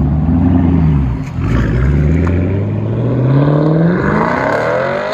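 Chevy Camaro's 6.2-litre LT1 V8 accelerating through a straight-piped dual exhaust with the mufflers deleted. The pitch falls over the first second, breaks briefly, then climbs steadily as the revs build.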